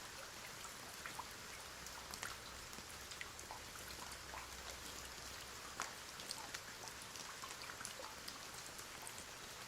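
Rain falling: a steady hiss with many scattered single drops ticking on a surface.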